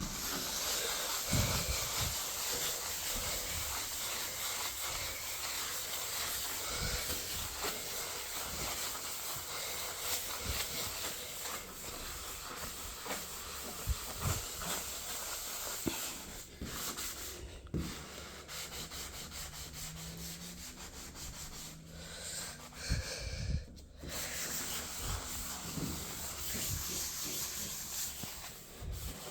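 Steady rubbing and scrubbing of a clothes dryer's surface during cleaning, with a few dull knocks now and then and brief pauses.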